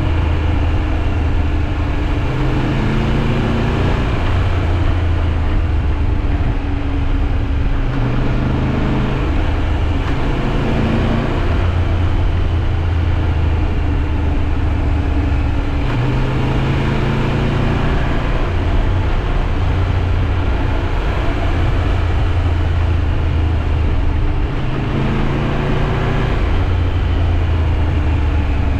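Triumph Tiger 1200 Rally Pro's three-cylinder engine running under way, its note shifting up and down every few seconds as the revs change, over a steady rush of wind and road noise.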